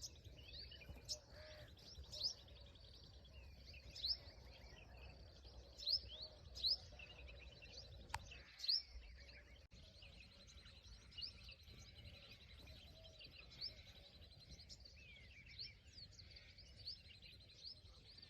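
Small birds chirping outdoors: scattered short, sharp chirps, with a steady high trill running underneath at times and one sharp click about eight seconds in.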